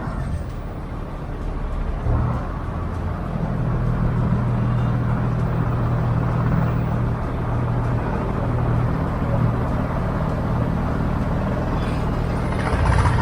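Motor boat's engine running steadily under way, its low hum coming up about two seconds in and then holding an even note.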